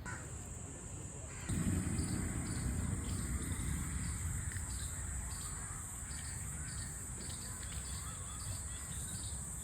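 Outdoor morning ambience: birds calling and chirping over a steady high-pitched hiss, with a low rumble setting in about a second and a half in.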